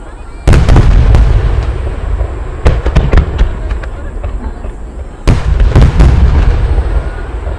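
Aerial firework shells bursting: a deep boom about half a second in and another about five seconds in, each rolling on in a long rumbling echo, with smaller sharp pops and crackles in between.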